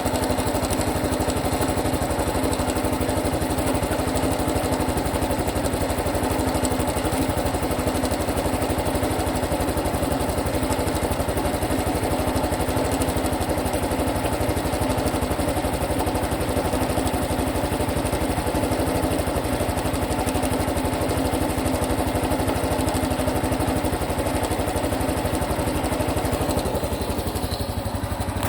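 Honda Super Cub 110 Pro's single-cylinder four-stroke engine idling steadily, with the unusual engine noise that the owner is recording. The sound eases a little near the end.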